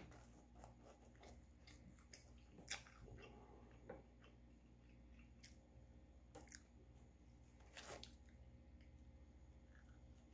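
Faint chewing and wet mouth sounds of a man eating pizza, with a few soft clicks here and there over a low steady hum.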